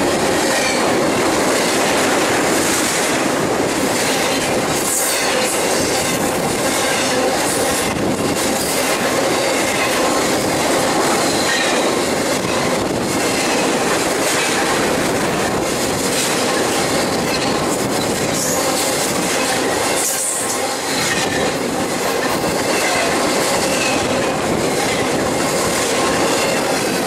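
BNSF double-stack intermodal freight train's cars passing close by at speed: a loud, steady rush of steel wheels on the rails, with faint high ringing tones over it.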